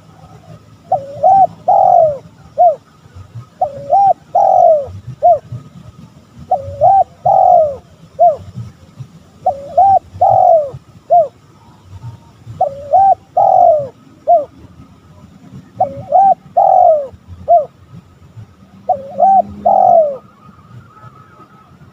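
Spotted dove cooing. The same phrase repeats seven times, about every three seconds: a couple of quick rising notes, a long falling coo, then a short closing note.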